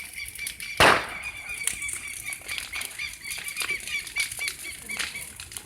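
Bonfire crackling with scattered small pops, and a sharp loud bang about a second in, with another right at the end. A steady high chirping runs underneath.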